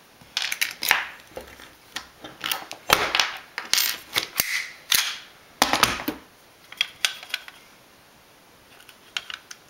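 Sharp clicks, taps and scrapes of hands working at a takedown pin in an airsoft M4's receiver, trying to push it out; the pin does not come out. The clicks come thick for about six seconds, then a quiet spell and a few more clicks near the end.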